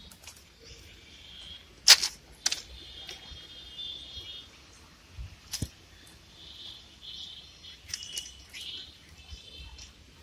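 Birds chirping in short repeated calls, with a few sharp clicks or knocks, the loudest about two seconds in.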